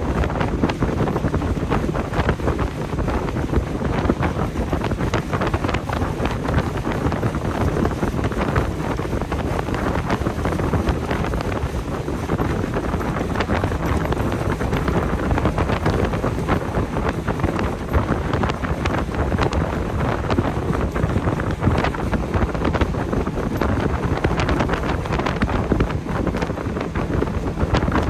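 Wind buffeting the microphone on a moving motorboat, over the boat's engine and its hull running on the water. It is a loud, steady rush with constant small gusts and knocks.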